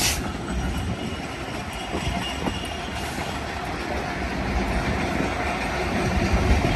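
A string of BNSF diesel-electric locomotives passing, engines running, with wheels rolling on the rails; it grows a little louder toward the end.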